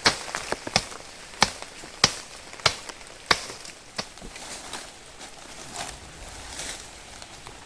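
A blade chopping at brush while a campsite is cleared: sharp, evenly paced strikes about every half second or so, thinning out after about four seconds.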